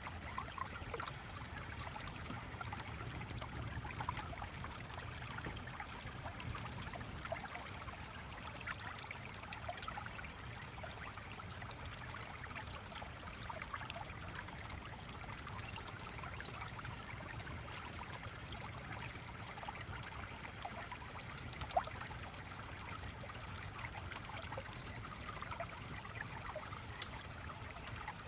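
A stream trickling and babbling steadily, with scattered small clicks and one sharper pop about three-quarters of the way through.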